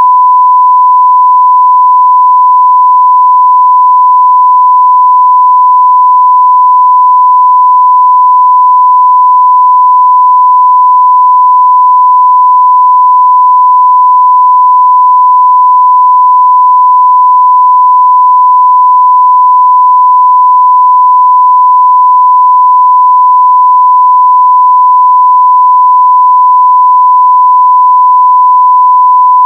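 Steady 1 kHz sine-wave test tone at full level (0 dB), held unchanged without a break.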